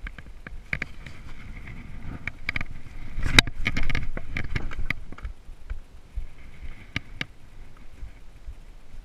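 Scooter riding over a rough, stony track: a low rumble with many sharp knocks and rattles from the bumps, loudest about three to five seconds in.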